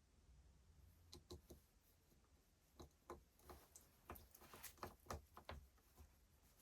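Faint, irregular clicks and light taps of small hard parts being handled on a workbench, thickest over the middle couple of seconds, over a low steady hum.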